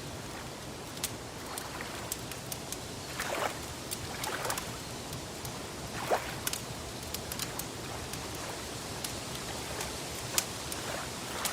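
Wood fire crackling, with sharp snaps scattered irregularly throughout, over a steady wash of lapping lake water; a louder pop comes about six seconds in.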